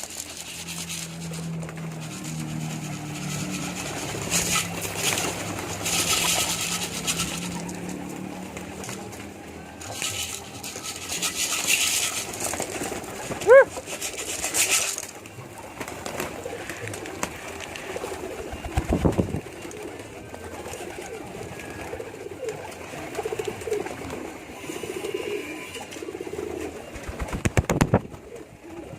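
Domestic pigeons cooing, low and throaty, with a few bursts of rustling noise in between.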